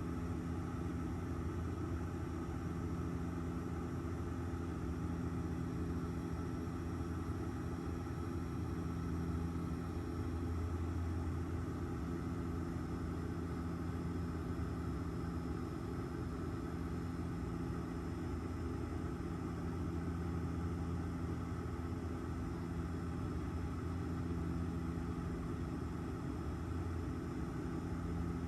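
Steady airliner cabin noise in flight: a constant low rumble from the engines and airflow, with a few unchanging low hum tones running through it.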